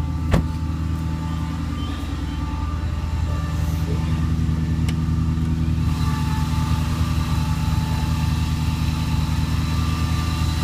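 Infiniti M45's V8 with FlowMaster 40 Series mufflers idling steadily, a low, even burble. A sharp click just after the start.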